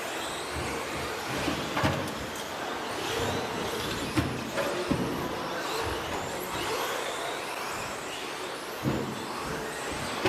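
Several 13.5-turn brushless-motor RC stadium trucks racing on a dirt track, their overlapping motor whines rising and falling as they accelerate and slow. A few sharp thumps come through, the loudest about two and four seconds in.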